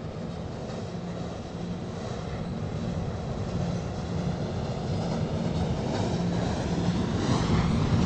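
Subway train approaching along the station track, its rumble and hum growing steadily louder.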